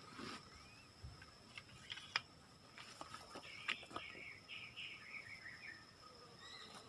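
Tropical forest ambience: insects give a steady high drone, and a bird calls a short run of descending notes about halfway through. Scattered faint clicks and taps sound throughout.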